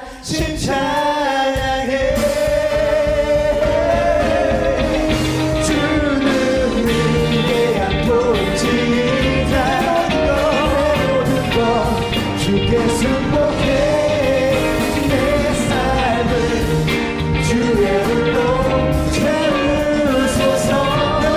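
Live worship band playing a rock-style praise song, with singing over a full band of drums and guitars, which comes back in loudly just after a brief dip at the start.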